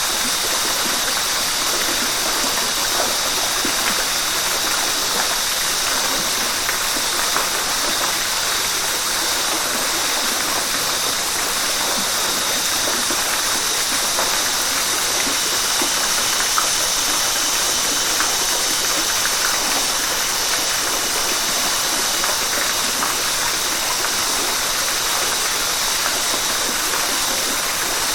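River water rushing steadily over rocks: an even, unbroken rush that is strongest in the upper range.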